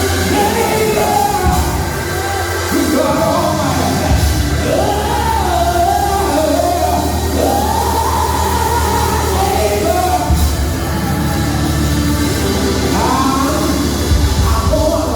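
Church music: a voice singing long, gliding phrases over instrumental accompaniment with a deep bass line that moves in steps.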